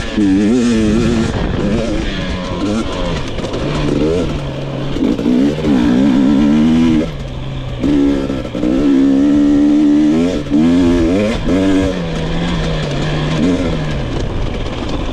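2022 GasGas EX 250 two-stroke engine being ridden hard, its pitch rising and falling again and again as the throttle is opened and closed through the gears.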